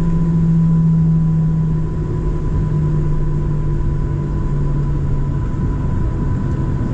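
Boeing 737-700's CFM56-7B jet engines idling steadily while the airliner waits on the runway before takeoff: a constant low rumble with a strong hum that steps slightly lower in pitch a couple of times.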